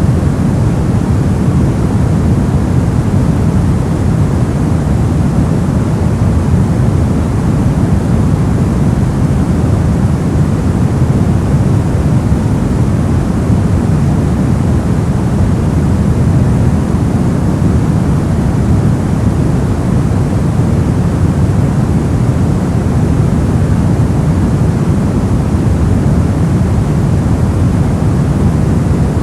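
Continuous white-noise track: a steady, unchanging rush with no events, heavier in the deep range than in the treble.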